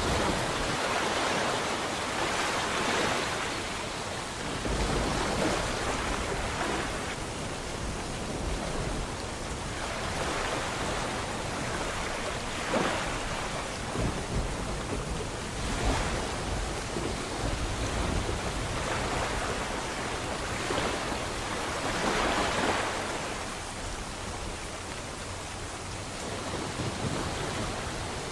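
Rain and sea waves with thunder rumbling: a continuous hiss that swells and fades every few seconds, over a low rumble that sets in about five seconds in.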